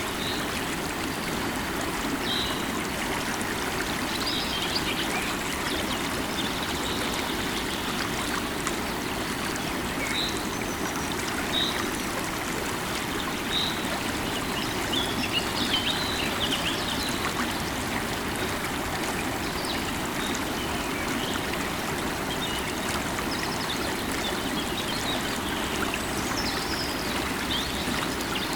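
River water running steadily over stones, a continuous rushing and trickling. Short high bird chirps come in here and there throughout.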